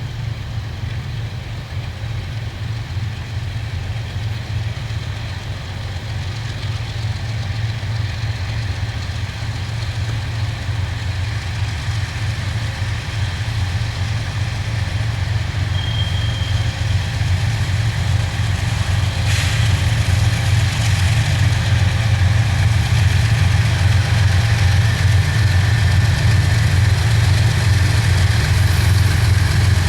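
Diesel-electric freight locomotives running as they pull a train away, a steady low engine drone that grows louder about two-thirds of the way through.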